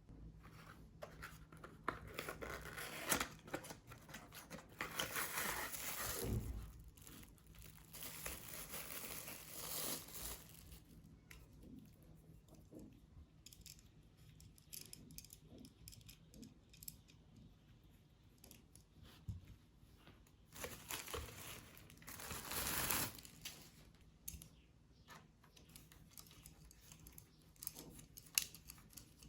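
Packaging being handled and torn open, with crinkling and rustling and scattered small clicks and taps. There are two louder spells: one early on lasting several seconds, and a shorter one a little past the middle.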